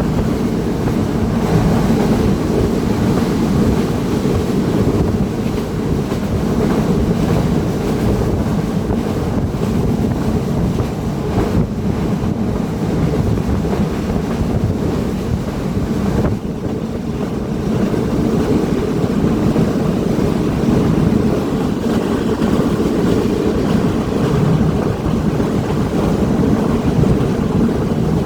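Passenger train running: a steady, loud rumble with wind buffeting the microphone.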